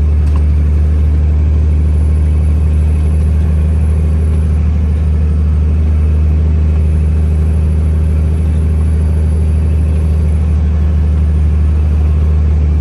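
A semi-truck's diesel engine running while driving, a steady low drone with no change in pitch.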